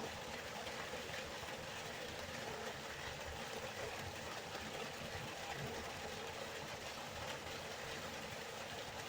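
Steady rushing of river water, an even unbroken flow noise.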